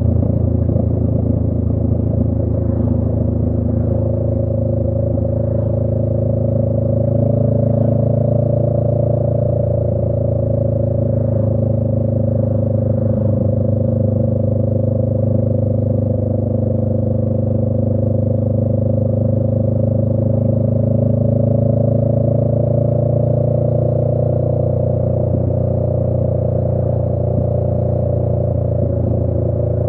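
Honda Rebel 500's parallel-twin engine through a Radiant Cycles Shorty GP aftermarket exhaust, running at a steady cruise, its note rising and falling only slightly.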